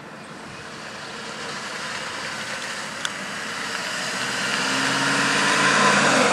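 A 1966 Dodge Dart with a 402 cubic-inch crate V8 drives toward the listener, its engine and exhaust growing steadily louder as it comes nearer. There is one short click about three seconds in.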